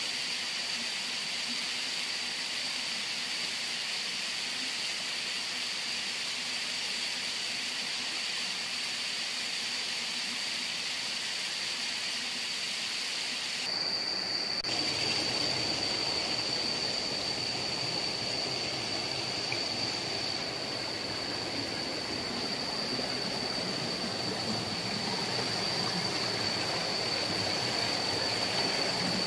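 Waterfall water rushing as a steady wash of noise, which gets fuller and a little louder about halfway through. A thin, steady high-pitched tone sits over it.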